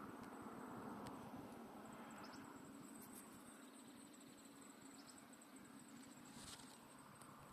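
Near silence: faint outdoor ambience with a steady high-pitched insect trill and a few brief faint chirps.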